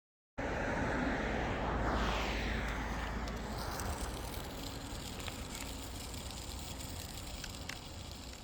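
A vehicle driving past, its engine and road noise cutting in suddenly. Its pitch falls about two seconds in, and then it slowly fades away.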